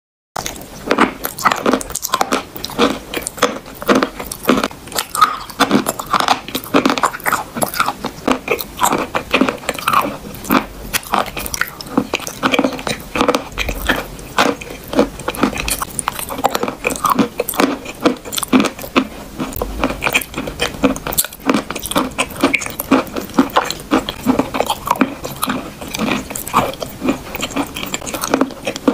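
Chewing and biting of wet, creamy chalk paste, a dense run of small crunches and wet mouth clicks several times a second.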